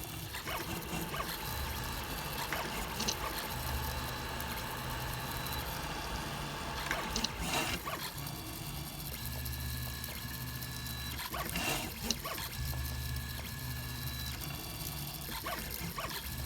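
3D printer printing, its stepper motors droning in steady tones that start, stop and change pitch every second or two as the print head moves, with two brief knocks partway through.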